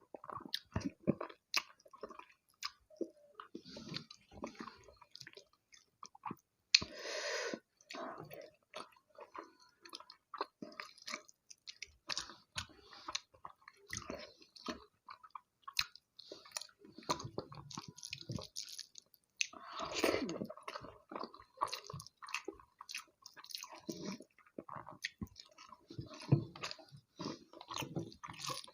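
Close-miked chewing and mouth sounds of someone eating rice with egg curry and fish curry: irregular wet smacks and clicks of chewing, with a longer, louder burst about seven seconds in and again about twenty seconds in.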